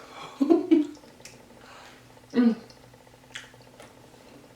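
A person eating at the table: soft mouth and chewing sounds with scattered light clicks, and two short hummed or voiced sounds about half a second and two and a half seconds in.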